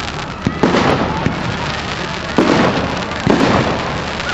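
Fireworks bursting overhead in a series of sudden bangs about a second apart, each trailing off in an echo.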